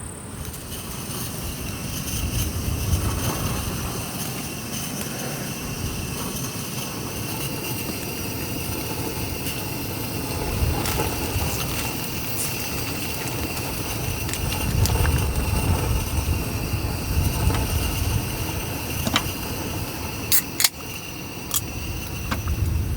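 Sea waves and wind rumbling in slow swells, with a steady high whine over them. There are a few sharp clicks near the end.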